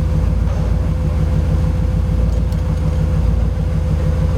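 Nissan GQ Patrol 4x4 running steadily, heard on board, with a steady whine on top of the low engine note.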